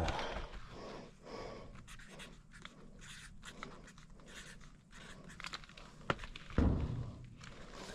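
Marker scratching as the date is written on a new furnace filter's frame, in short irregular strokes. A dull thump about six and a half seconds in.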